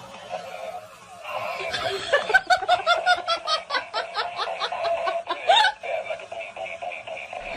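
Laughter: a rapid run of 'ha-ha' pulses, about four or five a second, starting about a second in and stopping shortly before the end.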